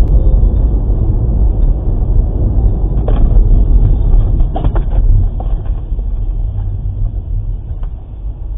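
Steady low rumble of a car driving, heard from inside the cabin through a dashcam's microphone, with a few light knocks about three seconds and about four and a half seconds in.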